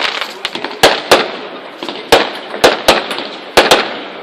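Fireworks exploding: about seven sharp bangs at uneven intervals, some in quick pairs, with crackling between them.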